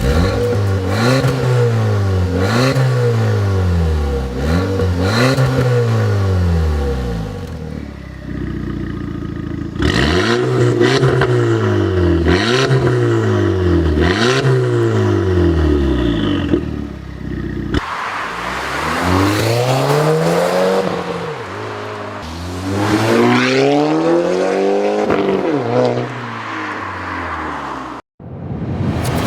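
Audi A5 2.0T's turbocharged four-cylinder engine revving through an ARMYTRIX valved aftermarket exhaust: repeated free-rev blips whose pitch climbs and falls back, with a steady idle between groups, then longer rising and falling pulls after a cut about two-thirds of the way in.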